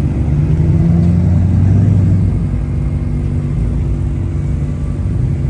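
A car engine running with a deep, low exhaust note, swelling louder about a second in and then easing off a little.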